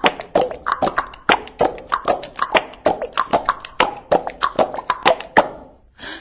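Rapid hollow percussive taps and plops, about five a second in an uneven rhythm, each with a short pitched ring. They fade out shortly before the end.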